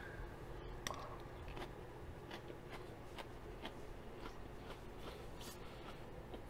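A person chewing a mouthful of rice and shredded lettuce: soft, irregular crunches and mouth clicks. One sharper click comes about a second in.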